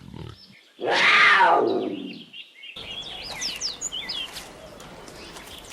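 Jaguar giving one loud call about a second in that slides down in pitch over about a second and a half. After it come high bird chirps over a steady background hiss.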